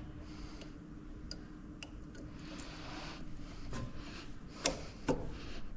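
Workshop handling noise: scattered light ticks and clicks, with two sharper knocks near the end, over a faint steady hum that fades out about halfway through.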